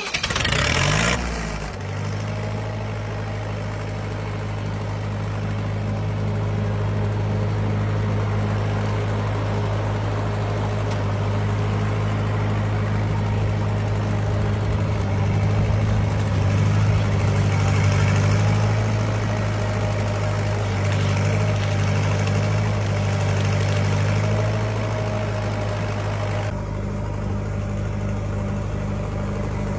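Lincoln SA-200 pipeline welder's engine starting up, its pitch rising as it catches in the first second or so, then running steadily.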